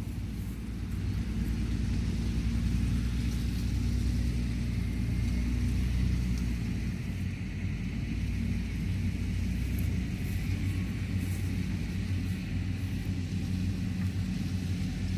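Engine of harvest machinery (combine harvester or straw baler) running steadily, a continuous low hum that eases slightly about halfway through.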